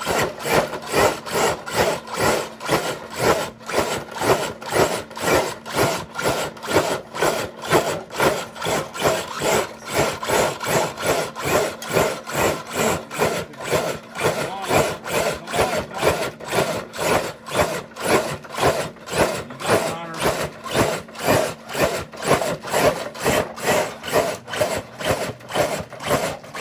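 Brick-weighted dead sled being dragged by an RC crawler truck during a pull, scraping along with a steady rhythmic rasp of about two strokes a second.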